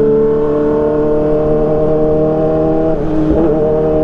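Kawasaki ZX-25R's 250 cc inline-four running through an Arrow Pro Race exhaust with a Radamel Racing header, holding a steady note that creeps slowly up in pitch, with a brief change in the note about three seconds in.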